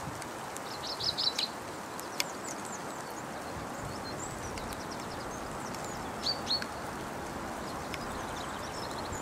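Small birds chirping in short bursts, about a second in and again around six seconds in, over a steady rushing background noise.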